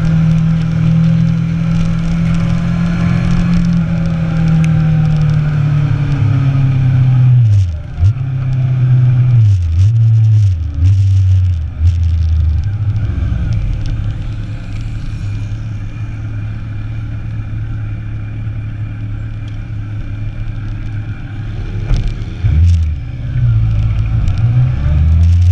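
Inline-four sport motorcycle engine under way, holding a steady note at first. About 8 seconds in the revs drop and climb several times as the throttle and gears change, then settle into a quieter, lower steady run before picking up again near the end, with wind and road noise throughout.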